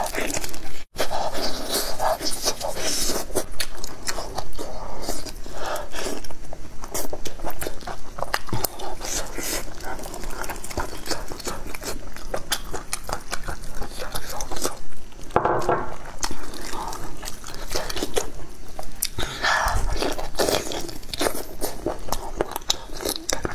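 Close-miked eating: wet chewing and a dense run of crisp crunches and clicks as cartilage from a sheep's head and tongue is bitten and chewed, with gloved hands tearing at the meat.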